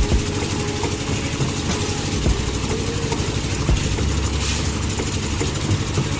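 A small motor running steadily, with irregular rattling knocks over it.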